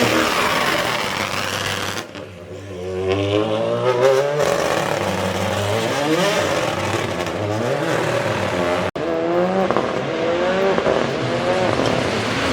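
Rally car engines revving hard and climbing and dropping in pitch through gear changes as the cars pass at speed. The sound breaks off abruptly about two seconds in and again about nine seconds in, where one pass gives way to the next.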